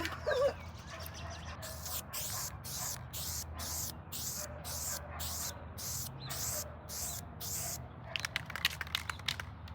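Aerosol spray paint can hissing in short, repeated bursts, about two a second, with a quick run of clicks near the end.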